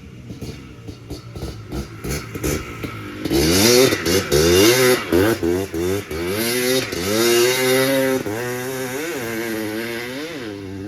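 Yamaha Blaster's two-stroke single-cylinder engine with a new FMF exhaust, running unevenly at low revs, then from about three seconds in revving up and down over and over, loud.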